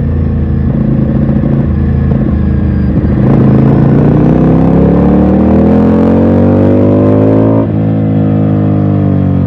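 Ducati Scrambler's L-twin engine under way: it runs steadily, then accelerates with a steadily rising note for about four seconds before an upshift about three-quarters of the way through drops the pitch, and it pulls on in the higher gear.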